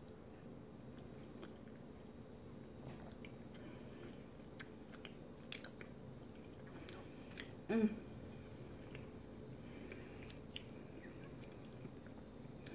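A person chewing a mouthful of lasagna close to the microphone, with soft wet mouth clicks and smacks. There is one short, louder hum-like sound about eight seconds in.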